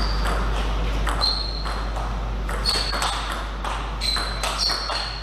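Table tennis rally: the ball clicks off paddles and the table about every half second to second, several hits leaving a short high ping.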